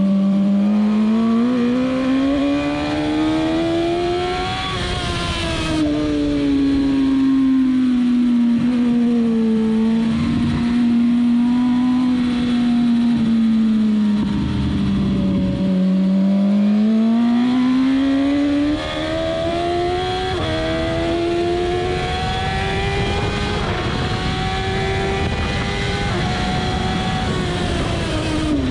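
Suzuki GSX-R1000's inline-four engine under hard riding, with wind rush: the revs climb, fall away about five seconds in, hold through a corner, dip again around fifteen seconds, then climb in steps toward the end.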